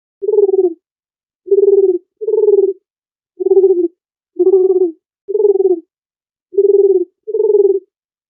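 Dove cooing: eight short coos of about half a second each at a steady low pitch, several coming in close pairs.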